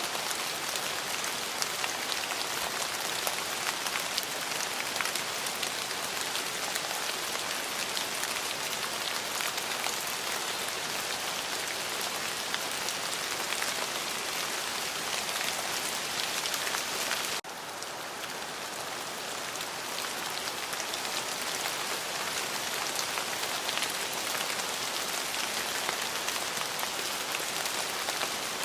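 Steady rain, a dense hiss of many small drop ticks. About 17 seconds in it cuts abruptly quieter, then gradually builds back up.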